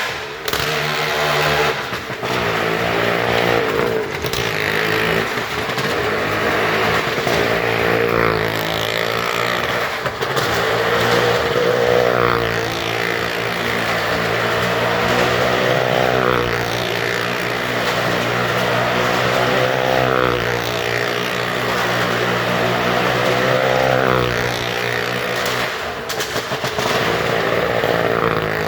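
Superbike engine running and revving, its pitch swelling and falling back about every four seconds.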